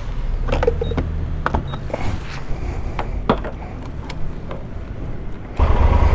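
Motorcycle engine running low and steady, with scattered clicks and knocks over it. About five and a half seconds in, the engine sound suddenly gets much louder.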